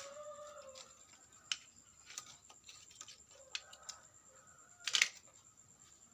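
Scattered sharp clicks and taps of hand work on small parts, at irregular intervals, with the loudest cluster about five seconds in. A faint steady high whine runs underneath.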